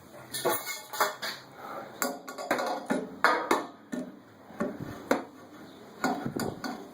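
Irregular metallic clinks and knocks of a pipe wrench and threaded pipe fittings being handled, some with a short ring, while a relief valve's drain line is worked back into place on a water heater.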